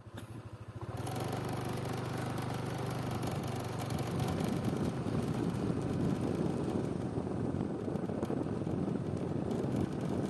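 A small engine running, pulsing as it starts, then a steady hum. From about four seconds in the hum gives way to a rough, noisy rumble.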